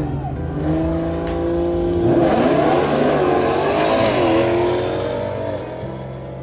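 A car engine revving and accelerating, its pitch rising and falling, loudest from about two seconds in to about five seconds in.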